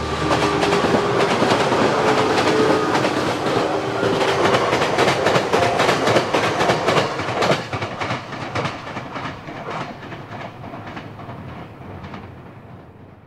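Electric train passing, its wheels clacking in a steady rhythm over the rail joints. The clacking thins out and fades as the train draws away near the end.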